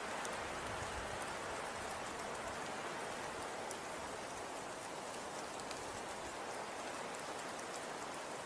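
Falling snow: a steady soft hiss with faint scattered fine ticks of precipitation landing.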